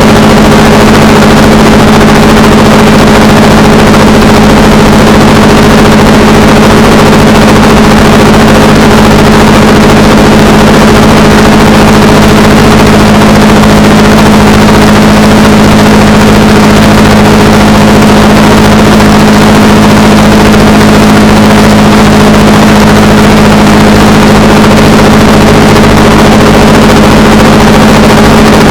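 Honda Rebel 300 motorcycle engine running at a steady cruising speed, its even engine note holding constant over a steady rush of noise.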